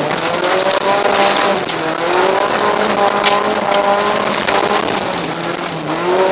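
Car engine heard from inside the cabin while driving, its note rising and falling several times as the car speeds up and eases off, over steady road noise, with a sharp knock about three seconds in.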